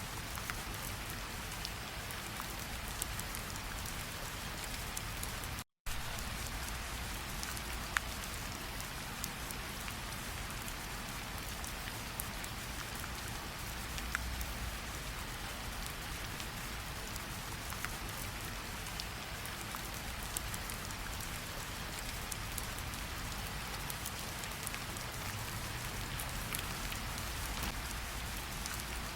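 Steady rainfall, with individual drops landing sharply now and then. The sound cuts out completely for an instant about six seconds in.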